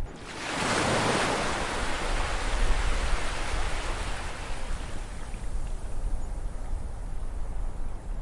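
Ocean surf: a wave breaks about half a second in and its hissing wash fades away over the next several seconds into a quieter lull, over a steady low rumble.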